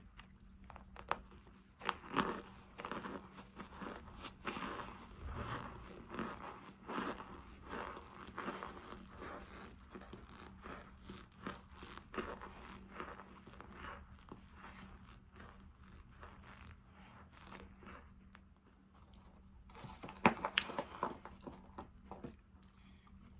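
Close-miked chewing and crunching of cornstarch, a run of small sharp crunches and crackles. It thins out through the middle, then a louder flurry of crunches comes about twenty seconds in.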